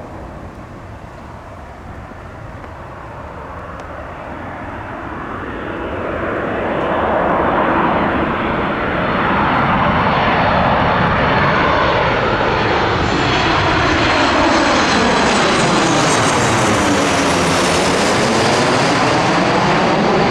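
Jet airliner's engines passing low and close, growing steadily louder over about eight seconds, then holding at full loudness with a sweeping, phasing whoosh as it goes by.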